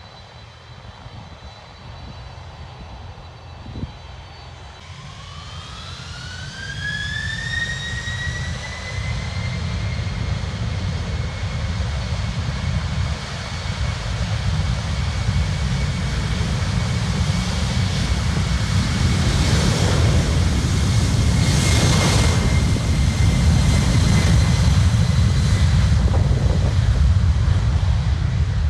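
Boeing 747 freighter's jet engines spooling up to takeoff power. A whine rises in pitch from about five seconds in and levels off a few seconds later, while a deep jet roar grows steadily louder as the takeoff roll begins.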